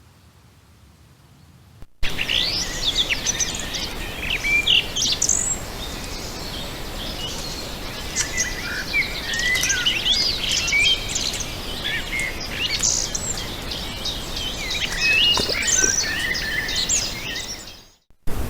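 A chorus of several songbirds singing and calling at once, a dense tangle of chirps, trills and whistles over a steady low hiss. It starts abruptly about two seconds in and cuts off just before the end.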